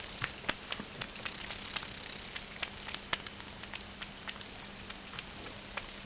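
Cats eating: irregular sharp clicks of chewing, several a second, over a faint steady hum.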